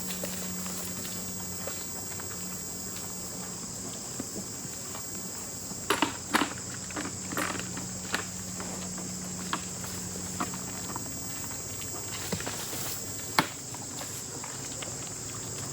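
Steady high-pitched chorus of crickets or other insects, with scattered footsteps and sharp knocks, the loudest about six seconds in and again near the end.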